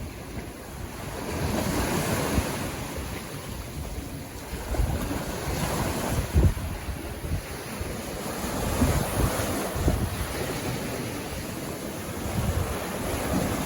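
Sea waves breaking and washing up the beach, the surf swelling and easing every few seconds, with wind rumbling on the microphone.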